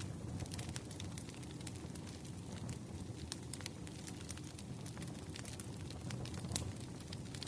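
Wood fire burning: a steady low rumble of flames with irregular sharp crackles and pops from the logs.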